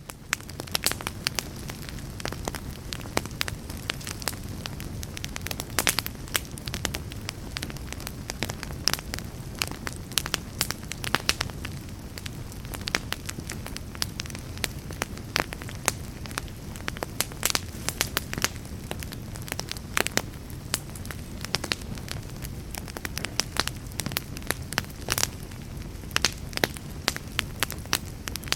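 Log fire crackling: frequent irregular sharp pops and snaps from the burning wood over a steady low rumble of the flames.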